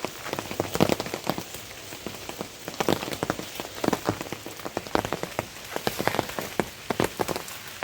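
Steady rainfall with many individual drops landing loudly and irregularly, several a second.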